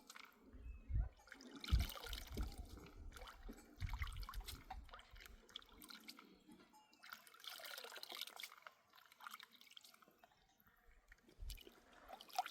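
Water pouring and splashing in short spells, with scattered knocks and handling sounds in between.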